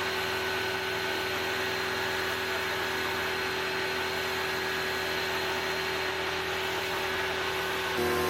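Stanley electric pressure washer running with the trigger held: its motor and pump hum steadily over the hiss of the water jet. The sound steps up slightly near the end.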